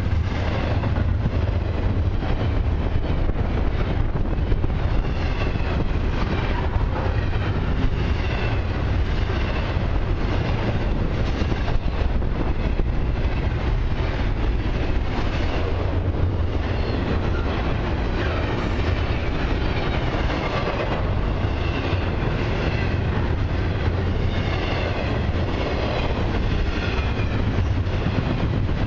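Double-stack intermodal well cars of a freight train rolling past at close range: a steady low rumble with repeated clacks of the wheels over the rail joints.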